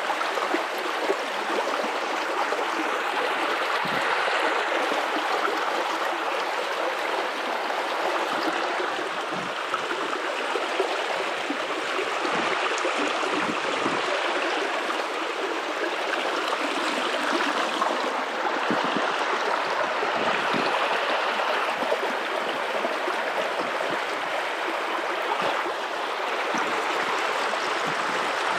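River water running over rocks: a steady rushing and gurgling flow.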